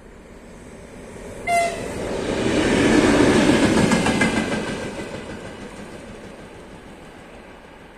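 A train sounds a short, high horn blast about one and a half seconds in, then passes by, its rumble and wheel clatter swelling to a peak and fading away.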